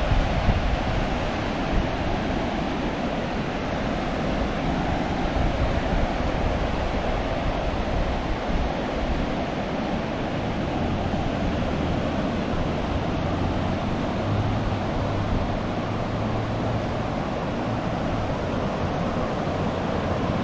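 Steady surf washing on the beach, with strong wind rumbling and buffeting the microphone.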